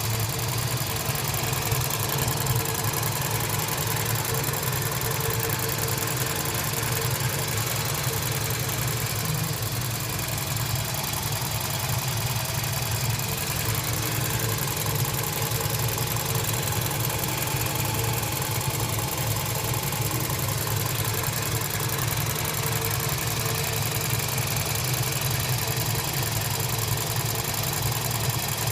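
Toyota 1AZ-FE 2.0-litre four-cylinder engine idling steadily with an abnormal engine noise, a high-mileage engine at about 300,000 km.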